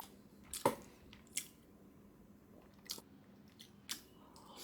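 A person chewing a soy-marinated soft-boiled egg: a few short, soft wet mouth clicks and smacks separated by quiet stretches.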